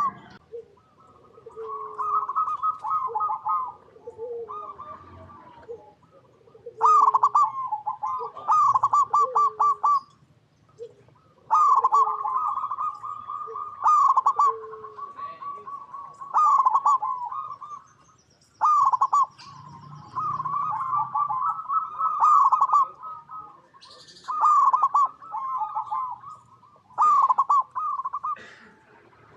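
Zebra doves (perkutut) cooing: repeated phrases of rapid staccato coos, each phrase about one to two seconds long. Softer, lower single coos sound between the phrases.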